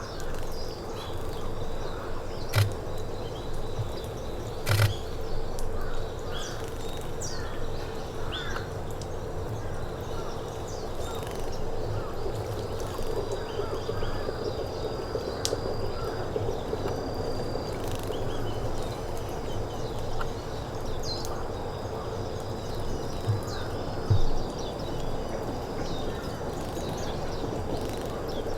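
Steady outdoor background noise with scattered faint bird chirps and a few sharp clicks, a thin high tone holding for a few seconds mid-way.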